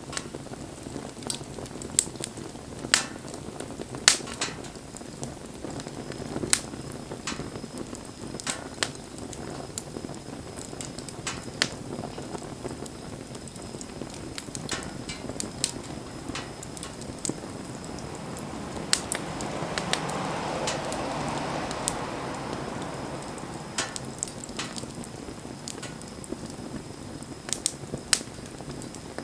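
Wood bonfire burning, with a steady low rush of flame and irregular sharp crackles and pops of burning wood. About two-thirds in, the rushing noise swells for a few seconds, then settles back.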